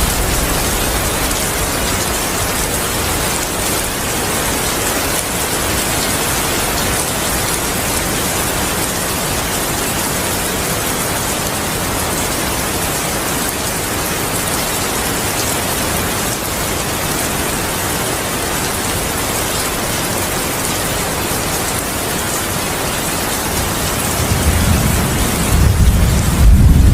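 Heavy rain falling steadily, a dense even hiss. Near the end a low rumble of thunder swells in.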